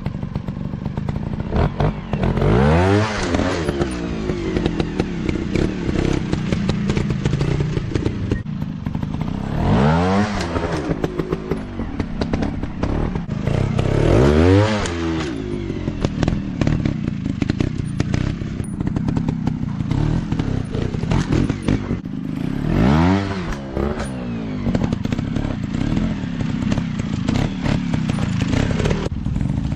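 Dirt bike engine running on a riding trail, revving up hard and dropping back four times, with clattering knocks from the bike working over rough ground.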